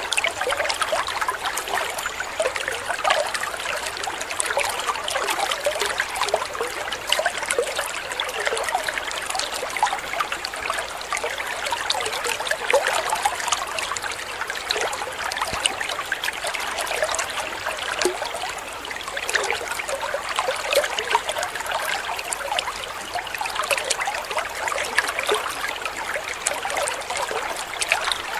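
Running water from a small waterfall or stream, a steady trickling and babbling with many quick splashes and no letup.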